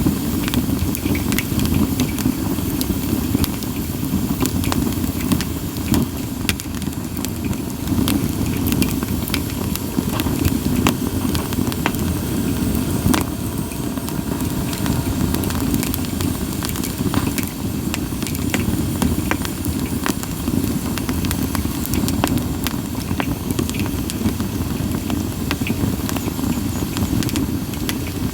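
Split sawtooth oak (kunugi) firewood burning in an open campfire: frequent sharp crackles and pops over a steady low rush of burning.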